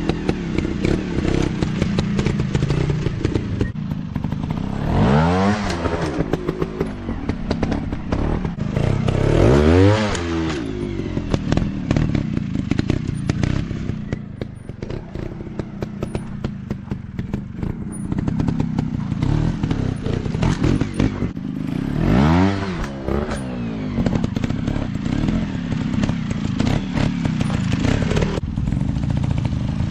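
Dirt bike engines running, revving up and dropping back about four times, with a steady run of clatter and knocks throughout.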